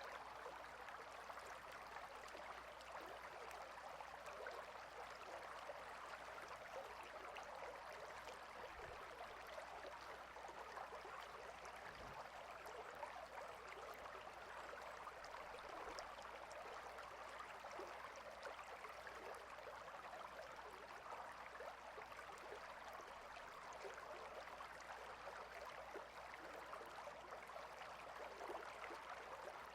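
A faint, steady rush of flowing water from a stream.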